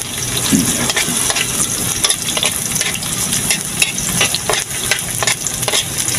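Chopped garlic and red onion sizzling in hot oil in a wok, with a metal spoon scraping and clinking against the pan many times as they are stirred.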